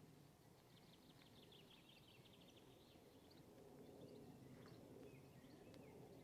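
Near silence, with a faint bird trill of rapid short high notes from about half a second in, lasting a couple of seconds.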